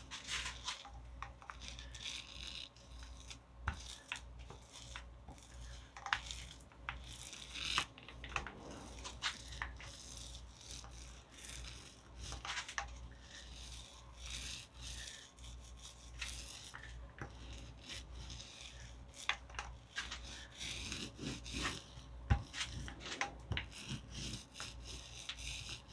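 Irregular rubbing and scrubbing strokes as Titebond II wood glue is spread over and worked into burlap on a styrofoam hull, the start of a glue-and-burlap ("poor man's fiberglass") layer.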